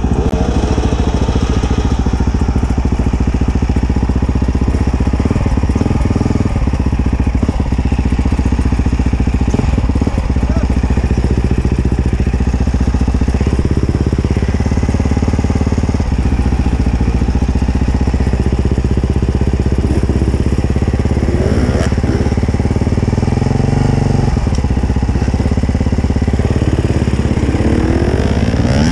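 Enduro motorcycle engine running under way, its revs rising and falling as the throttle is worked.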